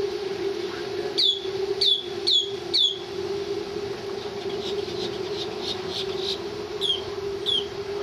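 A bird's short chirps, each falling in pitch, four in quick succession and then three more near the end, over a steady hum.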